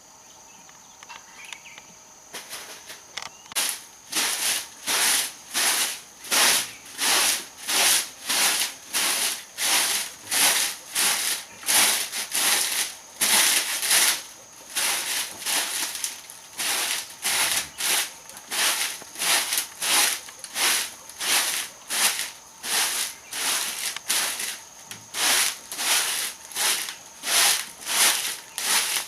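Hand saw cutting through wood with steady back-and-forth strokes, about two a second, starting a few seconds in. A faint steady high tone runs underneath.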